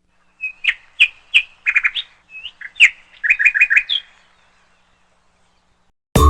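A small bird chirping: a quick run of short, sharp chirps for about four seconds, then quiet. Music starts abruptly just before the end.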